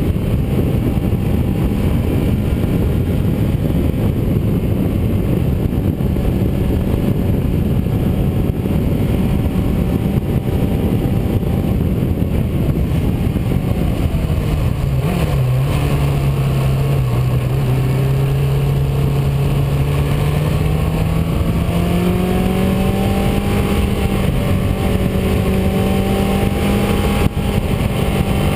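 A car being driven at speed, with steady engine, tyre and wind noise. About halfway through the engine note drops as the car slows, then climbs gradually as it accelerates again.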